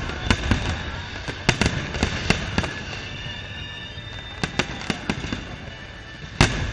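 Aerial firework shells bursting overhead: a string of sharp bangs, some in quick pairs, thinning out in the middle and with the loudest bang near the end.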